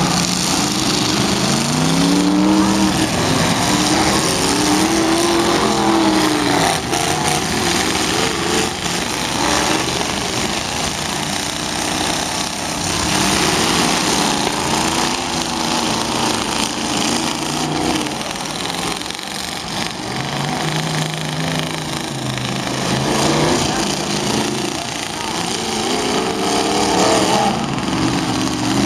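Several demolition derby cars' engines revving, their pitch rising and falling as they accelerate and ram one another, with sharp knocks of impacts scattered through.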